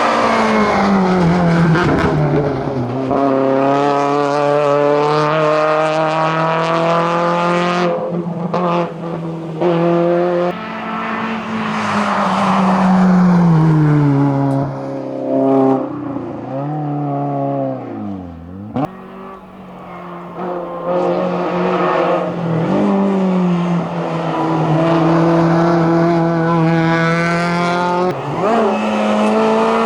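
Race car engine on a hillclimb run, driven hard. Its pitch climbs and drops repeatedly through gear changes and throttle lifts, with a wavering dip about two-thirds of the way through before it pulls hard again.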